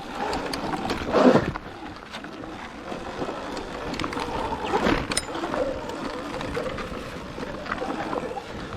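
Sur-Ron electric dirt bike ridden over rough ground: a steady rush of wind and riding noise with scattered knocks and rattles, and two louder bursts, about a second in and near five seconds.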